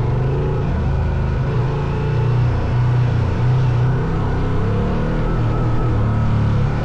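Motorcycle engine running steadily with a low drone, swelling slightly now and then.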